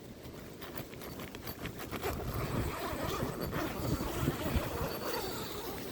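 Wind gusting against an Ozark Trail 10-person cabin tent, its nylon walls and rain fly flapping and buffeting in an irregular rumble, with wind noise on the microphone. It grows louder about two seconds in.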